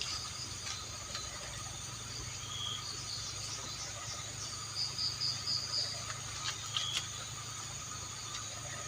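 Crickets and other night insects chirping steadily, with short repeated trills, and a few faint clicks about five and seven seconds in.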